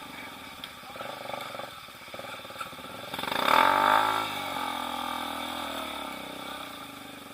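Trail motorcycle engine revving. It swells to its loudest about three and a half seconds in, then its pitch falls and it settles into lower, steady running.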